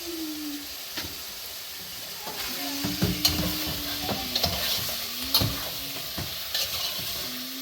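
Food sizzling in a pan while a utensil stirs and clinks against it, over a steady low hum.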